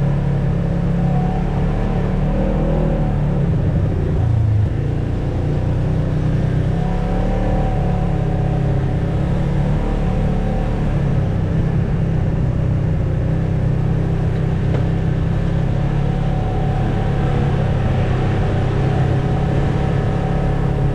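Off-road vehicle engine running steadily as it drives a trail, with small rises and falls in engine speed.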